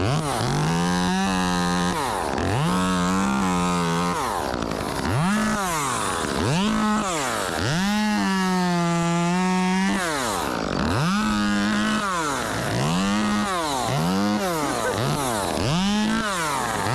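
Two-stroke chainsaw revved over and over from idle up to full throttle and back, about eleven times, with one longer held rev near the middle, as a saw is run up while being tuned.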